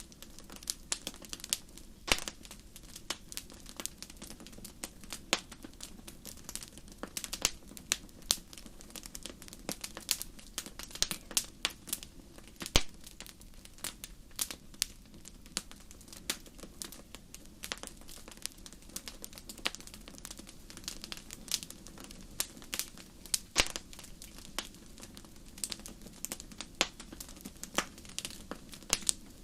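Fire in a fireplace crackling, with irregular sharp pops and snaps, several a second, over a soft low background.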